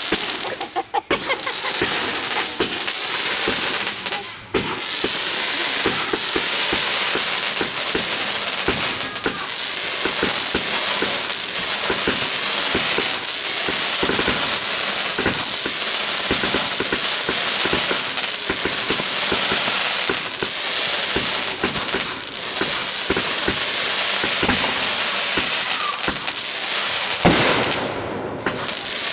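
Fireworks going off in a dense, unbroken run of rapid pops and crackling, with one louder bang near the end.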